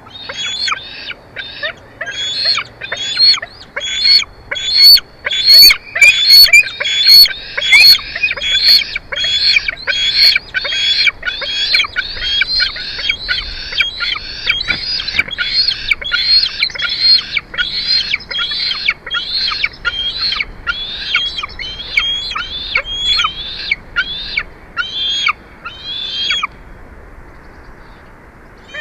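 Bald eagle calling: a long series of short, high-pitched piping calls repeated about twice a second, breaking off shortly before the end.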